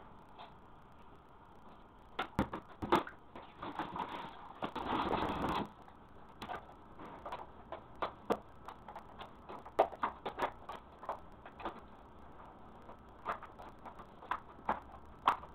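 Irregular sharp taps and knocks, with about a second of scraping or rubbing roughly five seconds in.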